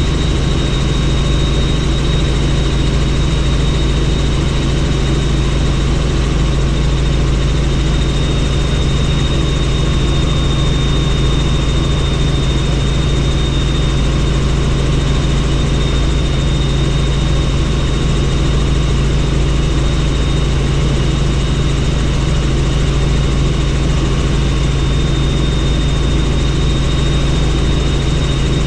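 Helicopter in steady flight heard from on board: a constant low drone with a thin high whine running over it, unchanging throughout.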